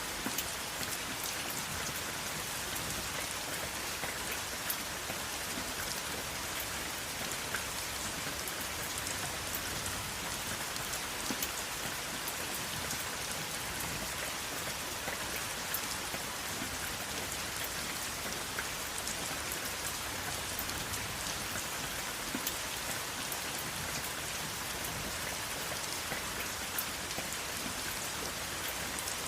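Steady rain falling, an even hiss with many small drops ticking on a surface, no thunder.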